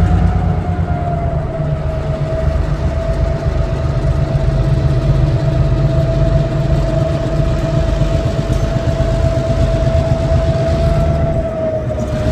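Diesel switcher locomotive running, a deep engine rumble with a steady whine above it.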